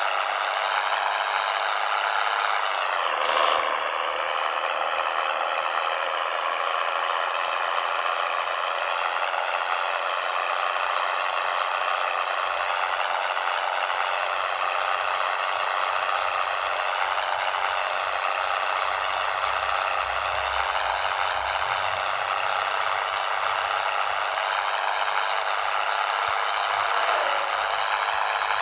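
Scania 113 truck's diesel engine running steadily under way, with rattling. The engine note dips briefly about three seconds in and then settles back.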